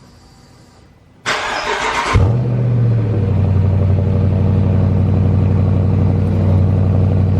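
Dodge Charger R/T's 5.7-litre HEMI V8 cold start, with the exhaust resonators removed. The starter cranks briefly about a second in, the engine catches with a rev flare and settles into a loud, steady fast idle.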